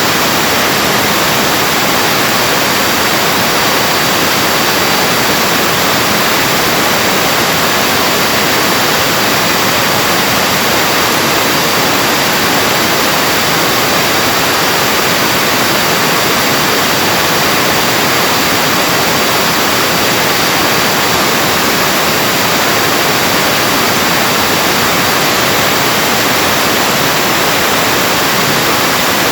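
Vacuum cleaner's brushed motor running steadily at speed: a loud, even rush with a thin, steady high whine. The motor's commutator is crusted from overheating and its worn carbon brushes are sparking heavily.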